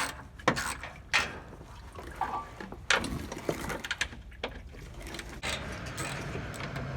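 Hand tools and metal bolts clicking and clinking as already-loosened 8mm bolts are backed out of a diesel fuel filter housing: a few sharp knocks early on and around three seconds in, then a faint low steady hum.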